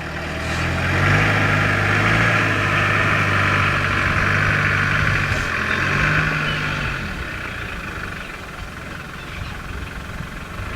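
A motor vehicle's engine running close by, a steady low hum that is louder for the first seven seconds or so and then settles somewhat quieter.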